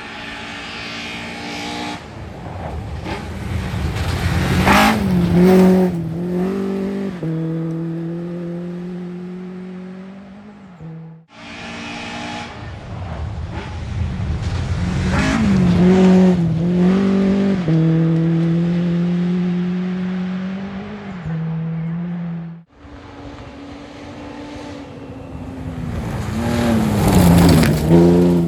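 Rally cars at full speed on a gravel stage, three separate passes cut one after another. In each, the engine grows louder as the car approaches, is loudest as it goes by with a drop in pitch, then holds a steady high note as it pulls away and fades.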